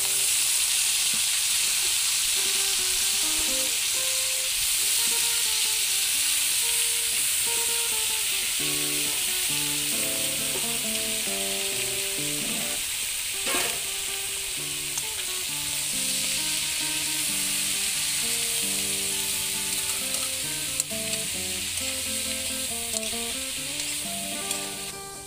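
Chopped winged beans sizzling as they fry with meat in a wok, just added to the hot pan and stirred with a metal spoon, with a single knock of the spoon about halfway through. The sizzle dies down near the end.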